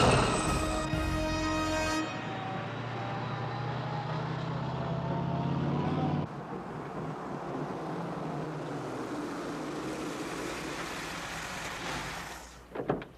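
A helicopter's rotor chop for about the first two seconds, then a road vehicle's engine running steadily, with background music throughout.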